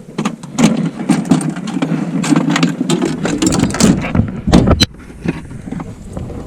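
Clicks, knocks and rustling of handling in a boat as a small fish is reeled in and landed, busiest for about the first five seconds, then quieter.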